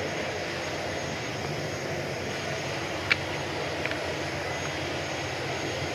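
Steady jet aircraft noise with no change in level, broken by two short sharp clicks about halfway through.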